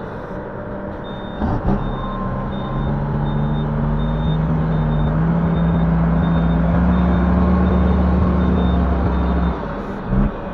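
Link-Belt 145X3E hydraulic excavator's diesel engine working under hydraulic load: its note rises about a second and a half in, holds for several seconds, then drops off near the end. A faint high beep repeats about three times a second throughout.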